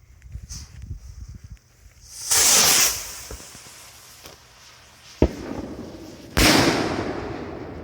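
Vintage Rocket Boy firework rockets going off: a loud rushing whoosh about two seconds in, a sharp crack a little after five seconds, then a second loud burst with a sudden start that fades away over a second or so.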